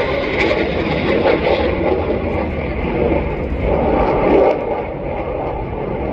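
Aircraft engine noise from an airplane in the flying display, a steady loud rumble that eases a little after about four and a half seconds.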